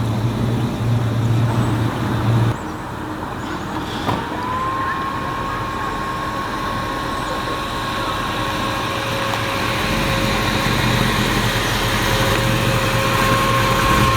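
Car engine running, its low hum dropping away about two and a half seconds in, then a steady high tone setting in about four seconds in and holding.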